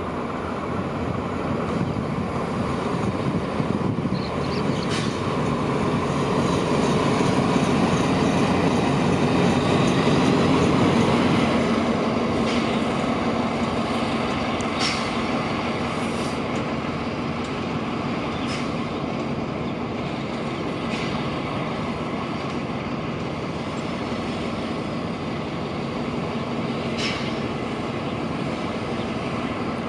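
A diesel-hauled passenger train running on the tracks: a steady rumble that swells about ten seconds in, then eases, with scattered sharp clicks and squeals from the wheels.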